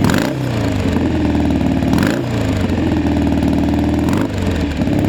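1967 BSA Spitfire's 650 cc parallel-twin engine running at a fast idle through high-mounted pipes, blipped up three times, about two seconds apart.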